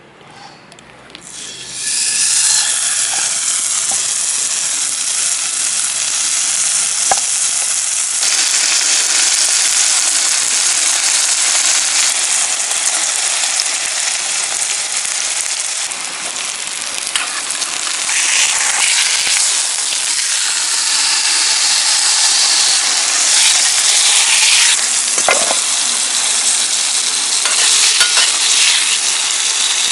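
Meat sizzling loudly as it cooks over a campfire. The hiss starts suddenly about two seconds in and holds steady, with a couple of sharp pops.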